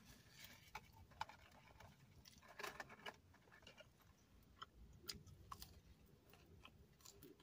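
Faint eating sounds: chewing with scattered small wet mouth clicks. There is a short, louder burst of crackly noise about two and a half seconds in.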